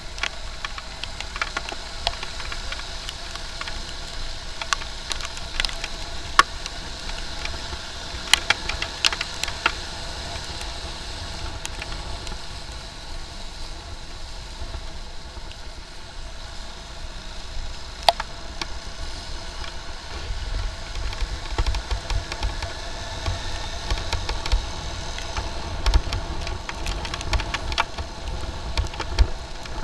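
Motorcycle ride through traffic in the rain: steady engine and road noise with scattered sharp ticks, and a deeper low rumble coming in about two-thirds of the way through.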